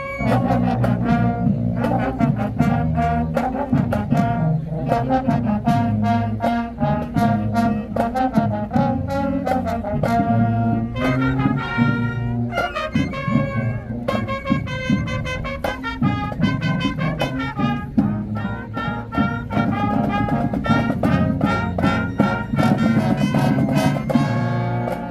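High school marching band playing, the brass carrying the tune over a steady drum beat.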